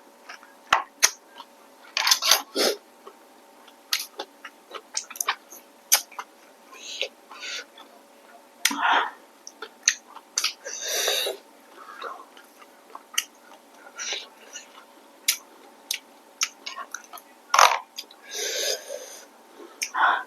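Close-miked eating of rice noodles with shrimp: wet chewing and many short lip-smacking clicks, with a few longer noisy bursts of mouth sounds about 9, 11 and 18 seconds in.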